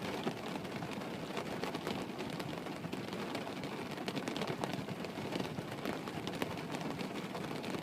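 Steady rain falling, an even hiss with scattered light taps of individual drops.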